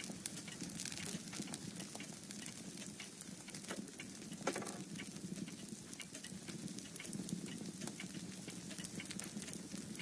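Fireplace fire crackling softly, with irregular small pops and snaps over a low steady background.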